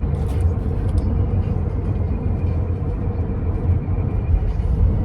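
Steady low rumble of a vehicle in motion with a faint steady hum above it; it starts abruptly.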